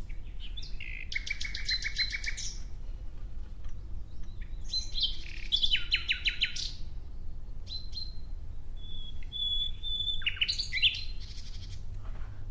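Common nightingale singing: three song phrases of fast, rapidly repeated clicking and whistled notes, with a held whistle just before the last phrase, over a low steady background rumble.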